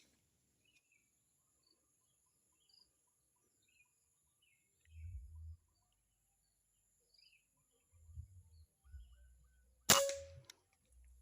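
A single sharp air rifle shot about ten seconds in, with a brief ring after it. Before it, a long near-quiet stretch with faint, scattered bird chirps and a few low bumps.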